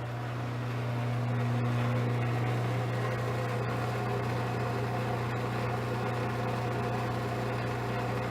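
Craftsman garage door opener motor running with a steady, even hum while the chain does not move. The drive gear inside the opener has sheared, so the motor spins without driving the chain.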